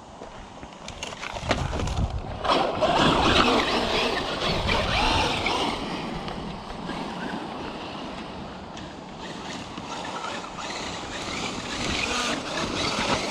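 Traxxas Unlimited Desert Racer RC truck driving on loose, dusty dirt: its electric motor and drivetrain whine rises and falls with the throttle over the hiss of the tyres in the dirt. It gets loud a couple of seconds in, eases off in the middle and builds again near the end.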